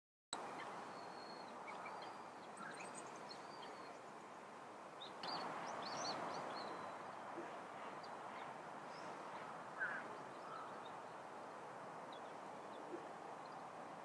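Scattered short chirps and twittering calls of small songbirds over a steady outdoor background hiss, with one stronger call about ten seconds in.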